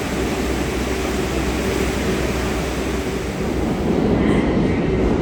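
R62A subway train running on the rails: a steady rumble of wheel and rail noise with a low hum, growing a little louder about four seconds in.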